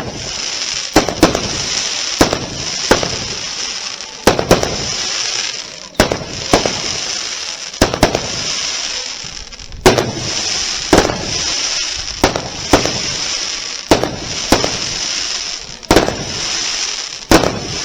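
Fireworks display: aerial shells bursting one after another, about one bang a second and sometimes two in quick succession, over a steady high hiss between the bangs.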